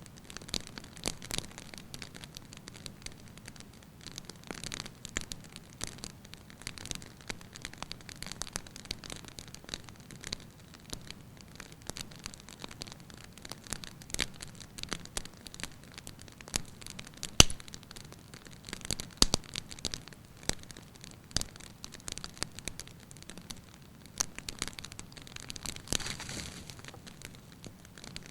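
Fire burning in a fireplace, crackling steadily with irregular sharp pops over a soft hiss; the loudest pop comes a little past halfway.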